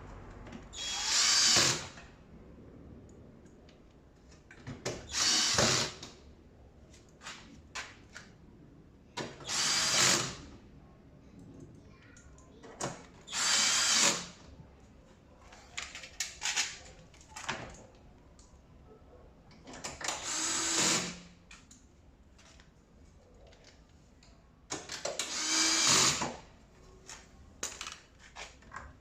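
Cordless power drill-driver running screws in short runs of about a second each, six times, with small clicks and knocks of parts and screws being handled between runs.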